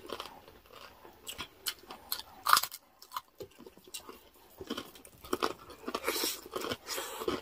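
Close-miked chewing and crunching, with irregular crisp crackles and clicks, from people eating crispy fried pork (chicharon bagnet) and rice.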